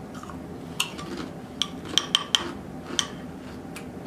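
Close-up chewing of a mouthful of soft taco with ground beef: wet mouth clicks and smacks, several in a row, over a faint steady low hum.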